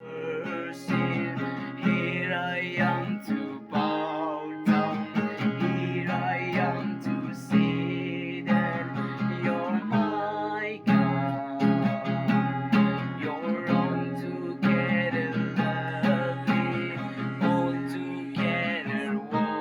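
A song: an acoustic guitar strummed, with a voice singing over it.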